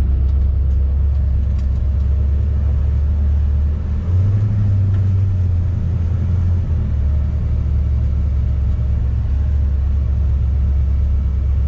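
1957 Chevrolet 3100 pickup's 350 V8 running on the road as a steady low rumble. The engine note rises about four seconds in and drops back a few seconds later.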